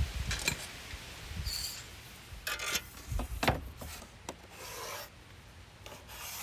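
Several short scraping and rubbing strokes on wood, a hand tool working a wooden template board.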